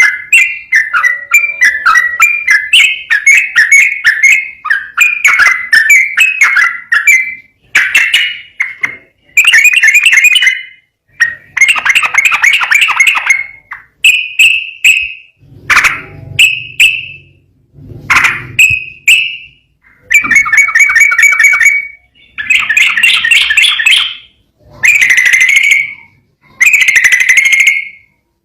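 Yellow-vented bulbul (trucukan) singing loudly. For the first seven seconds or so it runs off a rapid, unbroken string of bubbly whistled notes. It then goes on in separate chattering phrases of one to two seconds each, with short pauses between them.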